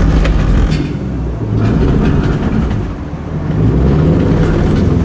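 Car engine idling, a steady low rumble that dips briefly about three seconds in.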